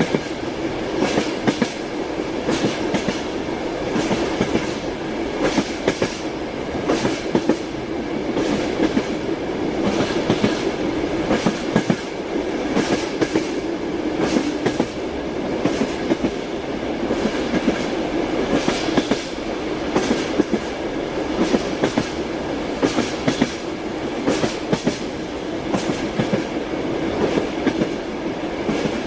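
Passenger train wheels clickety-clacking over the rail joints in repeated small groups of clicks, over the carriage's steady running rumble, heard from inside the train.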